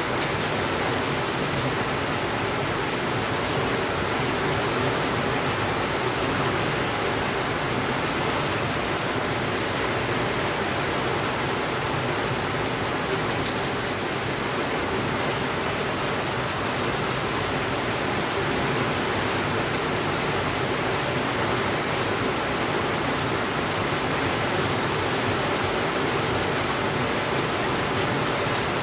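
Steady rainfall, an even hiss with no change in level, with a few faint clicks in the middle.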